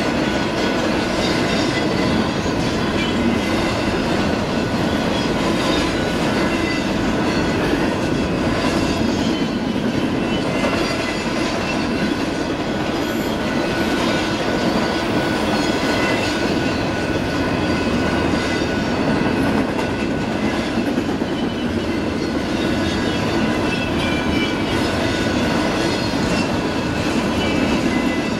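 A train rolling past on the rail line, its wheels rumbling and clattering over the track, with faint steady high-pitched squeal tones.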